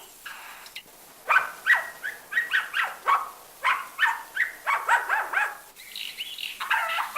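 A bird that mimics sounds, imitating a dog: a quick run of short, falling, yelping calls that starts about a second in, with a longer whining call near the end.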